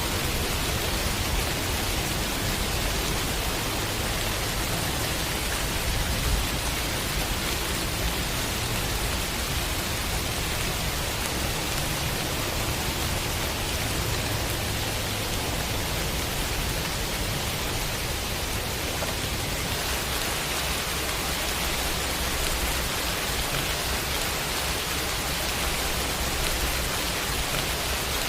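Heavy rain falling steadily: an even, unbroken hiss of downpour, with a low rumble underneath.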